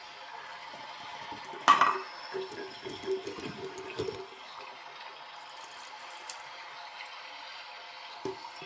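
LG washing machine in its rinse cycle, water running and sloshing in the drum. There is a sharp knock about two seconds in.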